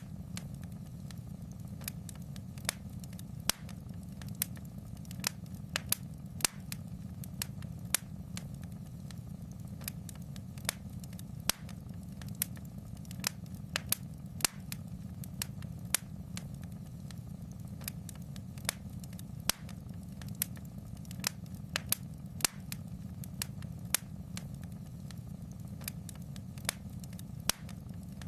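Fireplace fire crackling: irregular sharp pops and snaps, one to three a second, over a steady low rumble of the burning fire.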